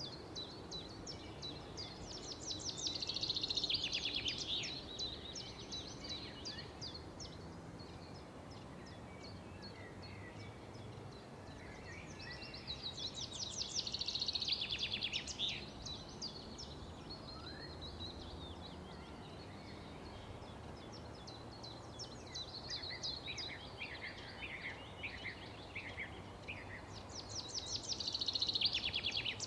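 A songbird singing loud bursts of rapid, high trilled notes four times, with fainter chirps between the phrases, over steady low background noise.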